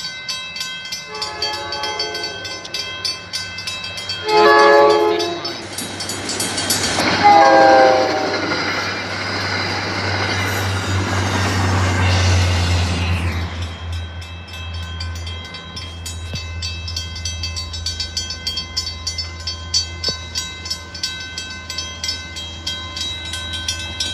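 Diesel locomotive of an MBTA commuter train sounding its horn three times on approach to a grade crossing, the last blast dropping in pitch as it reaches the crossing. The train then rumbles past for about seven seconds and fades, while the crossing signal bells ring throughout.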